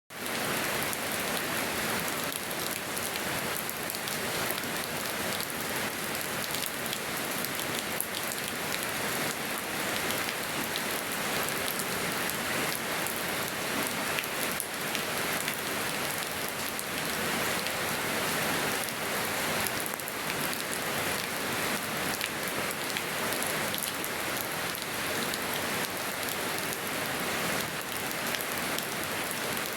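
Steady rain falling on surfaces in a yard, a dense even patter of many drops.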